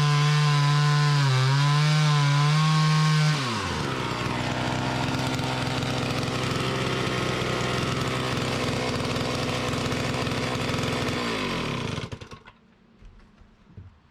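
Two-stroke chainsaw running at full throttle with its pitch wavering, then dropping to idle a little over three seconds in. It idles steadily and is shut off about twelve seconds in, winding down to a stop.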